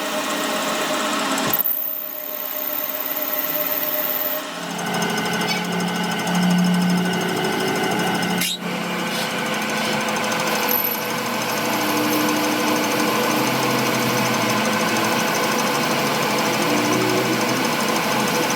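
Workshop machinery running steadily, a mechanical hum and hiss with several steady tones. It changes abruptly a few times, about 1.5, 4.5 and 8.5 seconds in.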